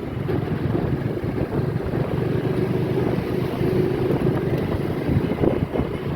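Motorcycle running on the move, with a steady, uneven low rumble and wind buffeting the microphone.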